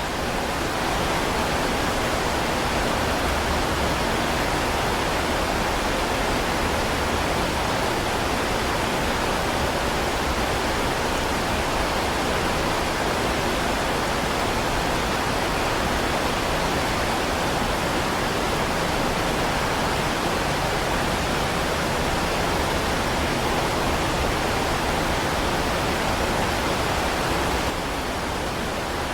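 Heavy rain falling steadily as a dense, even hiss with no single drops standing out; the level drops slightly near the end.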